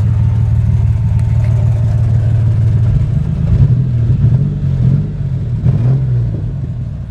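The 1991 Ford Explorer's 4.0-litre V6 running with a loud exhaust through a muffler with a hole in it. It misses on one cylinder, which the owner puts down to a fuel injector that needs cleaning. Around the middle the revs rise and fall a little.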